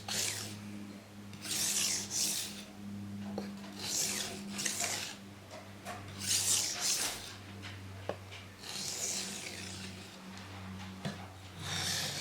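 Knife blade being stroked across a coarse King Deluxe 300 grit waterstone, a gritty scraping hiss in pairs of strokes about every two and a half seconds.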